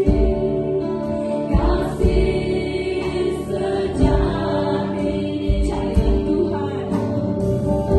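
Worship music: long held keyboard chords with voices singing, and a low beat about every two seconds.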